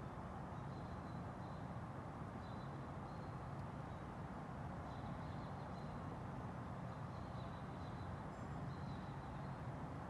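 Small songbirds chirping: short, high chirps repeating every second or so, over a steady low background rumble.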